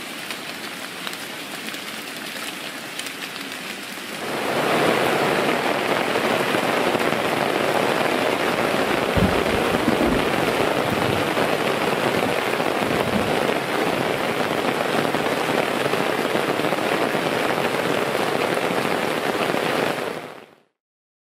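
Steady rain falling, growing louder about four seconds in, with a couple of low thumps near the middle. It cuts off suddenly near the end.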